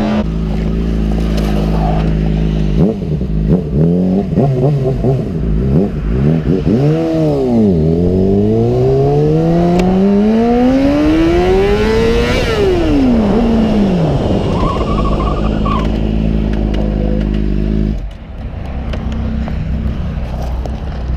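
Motorcycle engine running under the rider, revving up and down through the gears: several rises and falls in pitch, then one long climb and a quick drop as it slows. It runs steady for a few seconds, then falls to a lower, quieter run near the end.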